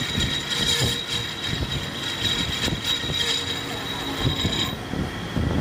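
Machine-shop work noise: a steady high whine over a clatter of small knocks, with the whine cutting off near the end.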